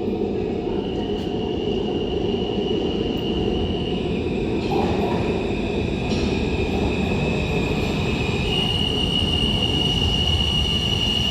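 R160 New York subway train running on the rails with a steady rumble and high-pitched squealing tones that shift pitch a few times.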